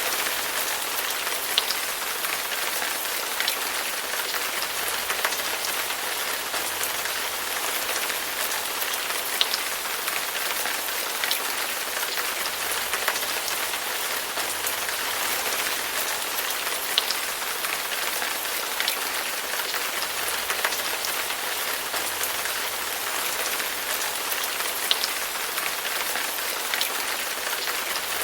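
Steady rain falling, an even hiss with occasional sharper single drops ticking through it.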